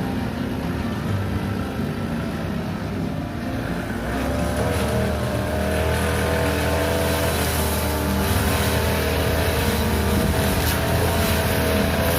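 Small petrol engine of a grass-cutting machine running steadily under load, getting louder about four seconds in.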